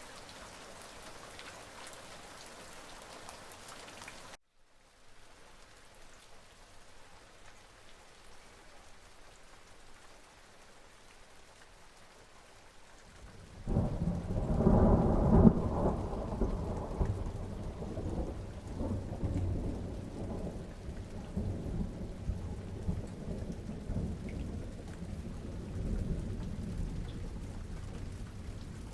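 Steady rain, which drops abruptly to a softer patter about four seconds in; about halfway through a loud crack of thunder breaks out and rolls on as a long, uneven, low rumble over the rain.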